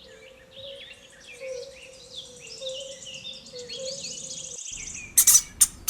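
Small birds chirping and twittering in a natural background, with a faint steady low tone beneath, until the sound cuts off abruptly near the end. Just before the end, a few loud, sharp clicks begin.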